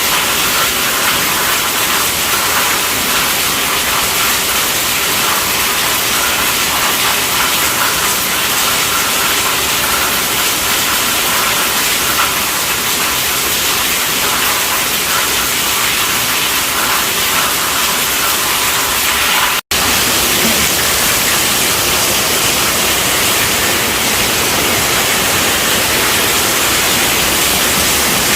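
Steady, heavy rainfall as a dense, even hiss. The sound cuts out for an instant about two-thirds of the way through, then carries on unchanged.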